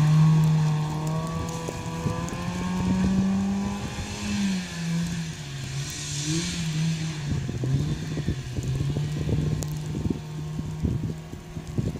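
Mazda Miata NB's four-cylinder engine held at high revs as the car slides in circles on snow, its pitch rising and falling with the throttle. Scattered thumps and crackles join in from about eight seconds in.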